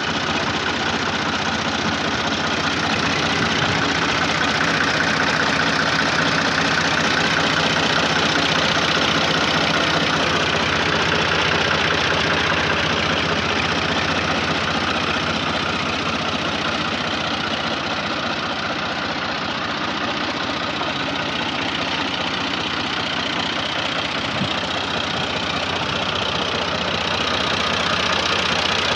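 Tractor's diesel engine running steadily at a low, even speed, with a knocking chug.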